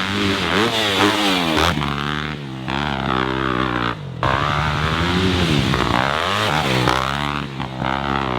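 Dirt bike engine revving hard, rising and falling in pitch again and again as the throttle is opened and shut over the track's jumps, with a brief drop about four seconds in.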